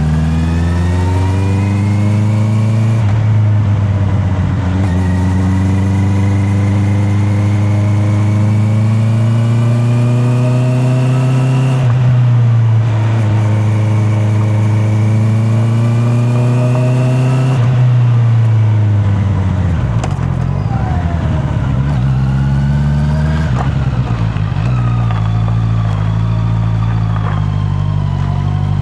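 Honda CB650R's inline-four engine pulling through the gears, heard from a microphone in the rider's pocket. Its pitch climbs steadily and drops sharply at upshifts about three and twelve seconds in. The revs then fall away as the throttle is rolled off about eighteen seconds in, run low and uneven for a few seconds, and climb again near the end.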